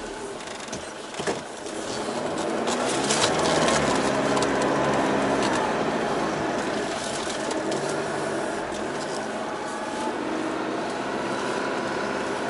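Off-road 4x4's engine heard from inside the cabin, working under load over soft sand dunes. It grows louder about two seconds in as the revs climb, and its pitch rises and falls. A few sharp knocks come in the first three seconds.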